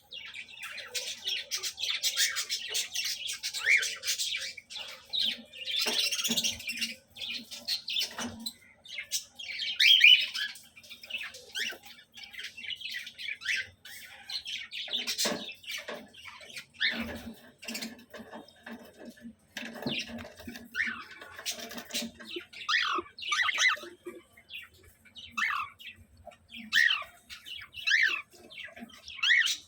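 Several cockatiels calling, a mix of harsh squawks and chirps, repeated throughout.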